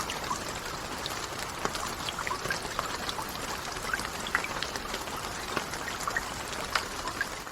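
Steady rain with many individual drops ticking and pattering close by.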